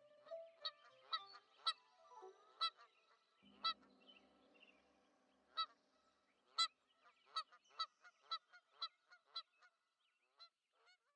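A bird giving a series of short, pitched calls, spaced unevenly at first and then coming quicker, about two a second, in the second half, before petering out.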